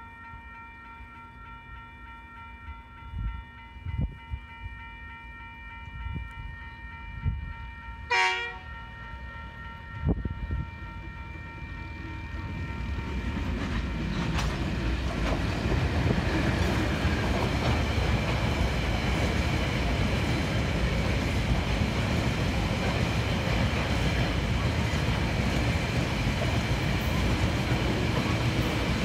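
Diesel freight train's horn sounding, with a loud short blast about eight seconds in. From about twelve seconds the train grows louder as the lead diesel locomotive reaches and passes, followed by the steady noise of loaded cement hopper wagons rolling by on the rails.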